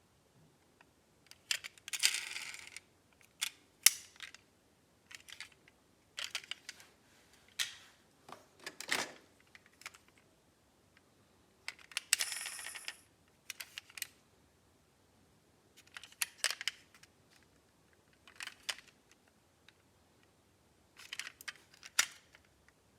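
Small metal diecast model cars being handled, clicking and clinking against each other and a hard surface in short clusters every second or two, some with a brief scraping rattle.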